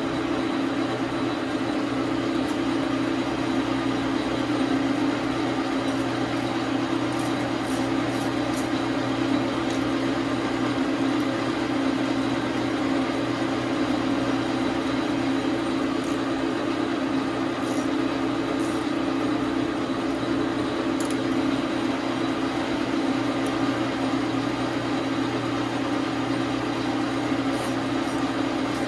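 Dar Sin 12 x 37 manual metal lathe running steadily with an even motor and gear hum, with a few faint ticks scattered through it.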